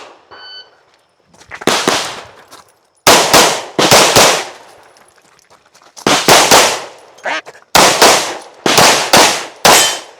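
Rapid gunshots from a competition shooter's gun during a timed practical-shooting stage, fired mostly in quick pairs with short pauses between strings, the longest about five seconds in.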